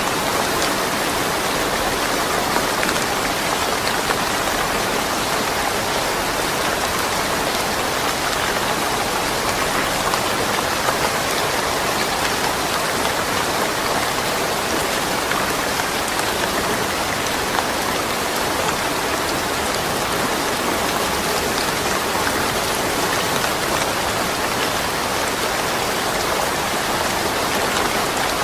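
Steady rain falling, an even hiss of many drops pattering on surfaces, with no thunder.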